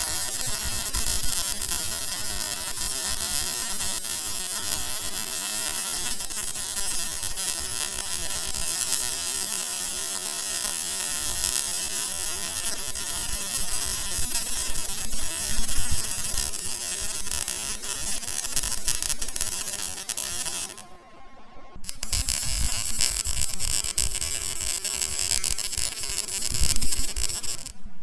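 MIG welding arc, a continuous buzzing crackle. It cuts out for about a second around two-thirds of the way in, as the arc is broken between beads, then strikes again.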